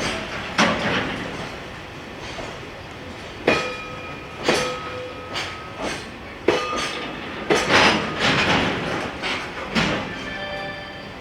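Freight train wagons rolling past: the wheels clack and knock irregularly over the rail joints, and some knocks carry short metallic squeals.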